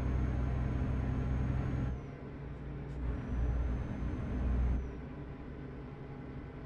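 Truck engine running, heard from inside the cab: it drops off about two seconds in, swells again briefly, then settles quieter near the end.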